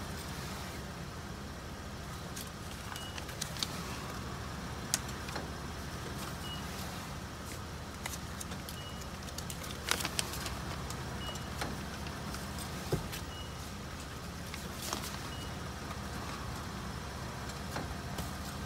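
Car engine idling steadily at a car wash pay station, with a few sharp clicks and faint short beeps about every two and a half seconds while the $6 is paid in.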